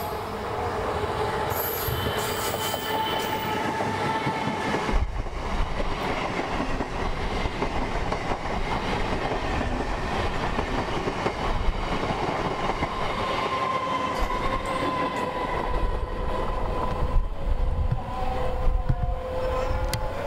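Indian electric multiple-unit passenger trains running past close by: a dense rumble of wheels on rail with repeated clacks over the rail joints and a thin steady wheel squeal. The sound changes abruptly about five seconds in.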